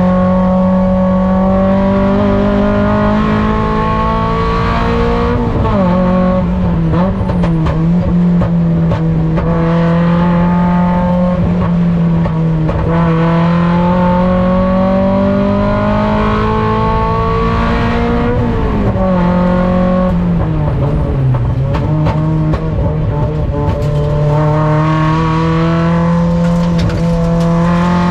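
In-car sound of a Mazda Miata race car's four-cylinder engine lapping under load. Its pitch climbs slowly along the straights and drops sharply about five seconds and eighteen seconds in, as the driver brakes and downshifts, with another dip around twenty seconds before it pulls up again.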